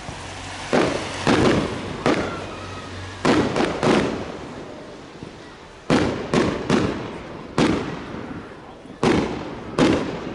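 Aerial fireworks bursting: about a dozen loud bangs at uneven intervals, some in quick clusters of two or three, each with a trailing rumble as it echoes away.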